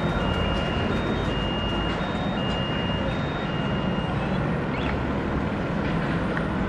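Steady low rumble of rail traffic on the tracks. Over it, for the first three and a half seconds, a two-tone electronic beep alternates high and low, about one cycle a second.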